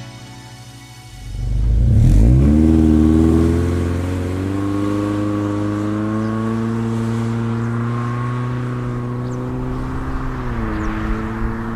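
Exhaust of a Subaru Impreza Sport's 2.0-litre flat-four coming in after a second of music: the revs rise and flare, then ease into a steady fast idle, with a brief dip in pitch near the end.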